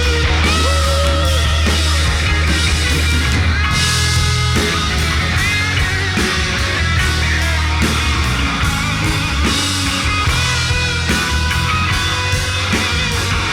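Rock band playing an instrumental passage: an electric lead guitar plays bent, wavering notes over bass guitar and drums.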